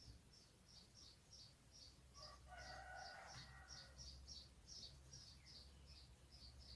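A small bird chirping faintly in a quick steady series, about three chirps a second, with a lower, drawn-out call about two seconds in.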